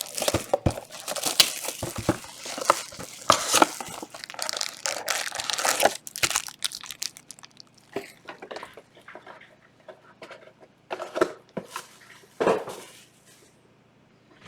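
Plastic wrapping on trading card boxes being torn open and crumpled. The crinkling is dense for about the first seven seconds, then thins to scattered rustles, with a couple of louder crinkles near the end.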